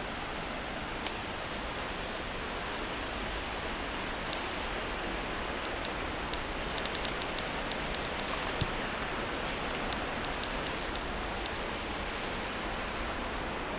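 Steady rushing of river water, with a run of sharp small clicks and ticks through the middle.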